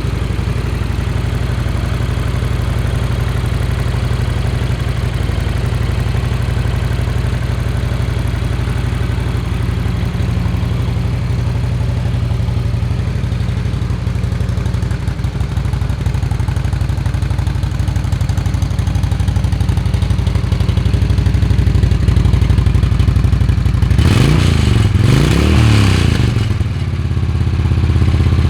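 Honda VTX1300 S V-twin motorcycle engine idling steadily, then revved twice with quick throttle blips near the end before settling back to idle.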